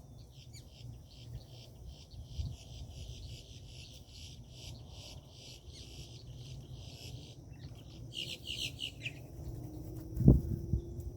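Birds at a feeder chirping in a rapid run of short notes, then a louder burst of chirps about eight seconds in, over a steady high insect drone. A loud thump sounds near the end, with a softer one early on.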